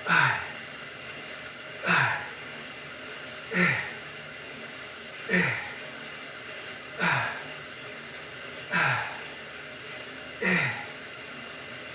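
Man breathing out hard in time with his reps while pedalling an exercise bike and lifting dumbbells: seven forceful exhales, about one every second and a half or so, each dropping in pitch, over a steady low hiss.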